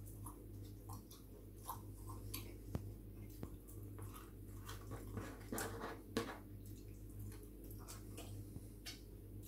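A man chewing pizza with his mouth close to the microphone, with small wet lip smacks and clicks as he eats and licks his fingers; the loudest smacks come about five and a half to six seconds in. A steady low hum runs underneath.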